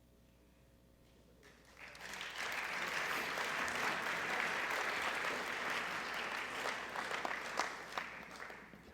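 Audience applause, starting about two seconds in, holding steady, then thinning to scattered claps near the end.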